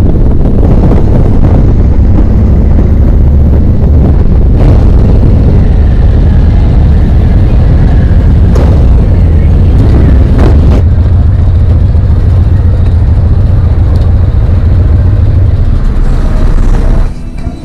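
Harley-Davidson V-twin motorcycle riding along at speed, a loud steady low rumble that drops off sharply near the end.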